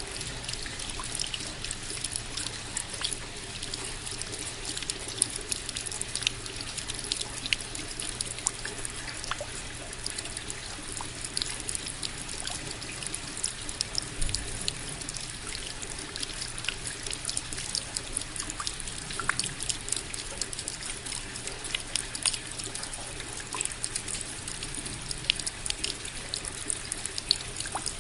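Steady rain falling, a continuous hiss with many individual drops striking close by at irregular moments.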